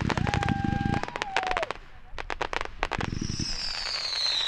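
500 gram consumer fireworks cake firing: dense crackling reports and low launch thumps for about the first second, then scattered pops. About three seconds in comes another launch thump and a high whistle that falls in pitch.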